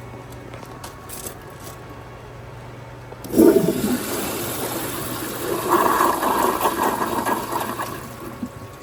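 A 1978 American Standard Glenco wall-hung toilet flushed by a Sloan Regal flushometer. A sudden loud rush of water starts about three seconds in, runs for about five seconds, then tapers off.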